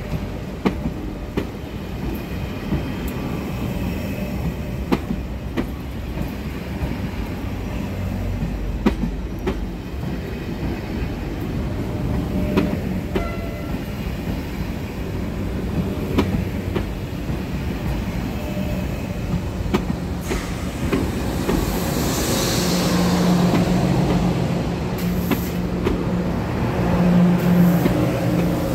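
TGV high-speed train rolling slowly past on a station track: a steady rumble with its wheels clicking over rail joints, and a brief wheel screech about three-quarters of the way through.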